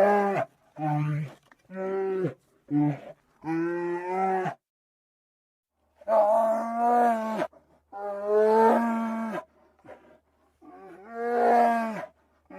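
Bear vocalising: five short pitched calls in quick succession, a pause of about a second and a half, then three longer drawn-out calls.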